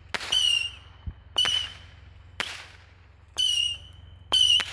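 100-shot Saturn missile battery firing: each shot is a sharp pop followed by a short whistle that dips slightly in pitch, about one shot a second, with two coming close together near the end. A faint low thud sounds about a second in.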